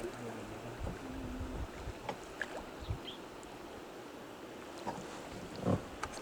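River water rushing and splashing around a raft, with a few short splashes.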